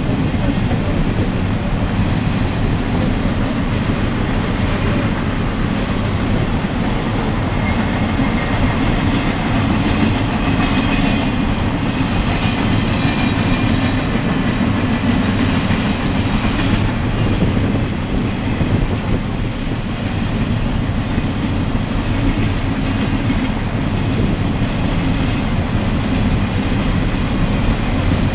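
Freight train rolling past, its wheels clicking steadily over the rail joints, with a faint high wheel squeal about a third of the way through.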